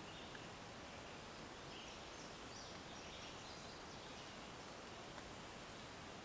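Quiet outdoor background hiss with a few faint, short high-pitched chirps from distant birds scattered through it.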